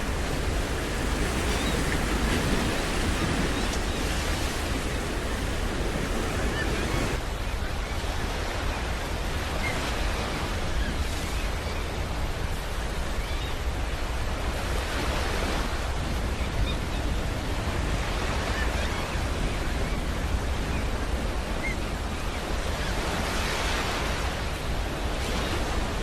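Sea waves washing against a rocky shore, swelling and easing a few times, over a low rumble of wind on the microphone.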